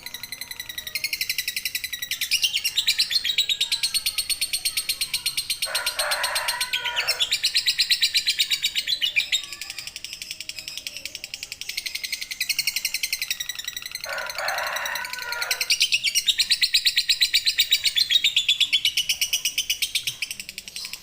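Lovebird giving a long ngekek: a rapid, unbroken high chattering trill that swells and eases in loudness. Twice, about six and fourteen seconds in, a lower-pitched sound breaks in for a second or so.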